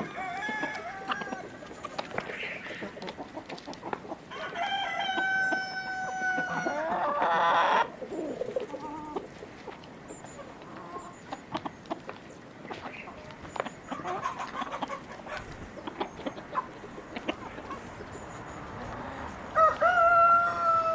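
Rooster crowing: one long crow about four seconds in and another starting near the end, with hens clucking in between.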